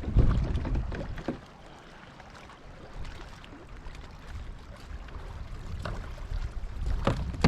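Gusty wind rumbling on the microphone of a kayak angler's camera, strong at first, easing off after about a second and a half, then building again, with a few light knocks scattered through, several of them near the end.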